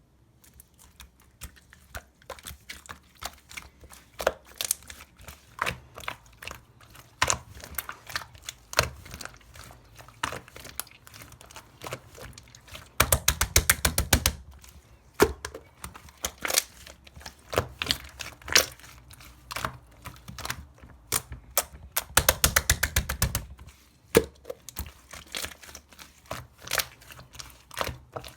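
Slime being squeezed and poked by hand, making irregular sticky pops and crackling clicks, with two runs of rapid clicking around the middle and about three-quarters of the way through.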